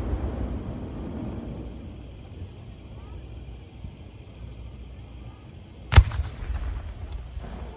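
Fireworks display: the low rumbling echo of a shell burst fades away, then a single sharp firework shell bang about six seconds in, followed by a brief rolling echo.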